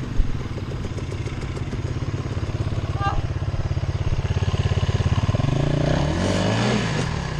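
Enduro dirt bike engine running with a rapid firing rhythm, revving up and back down about six seconds in. A single sharp knock comes just after the start.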